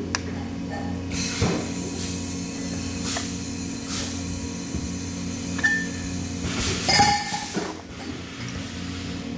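Metal parts clinking and knocking every second or so over a steady low electrical hum. A few strikes ring briefly, and the loudest cluster comes about seven seconds in.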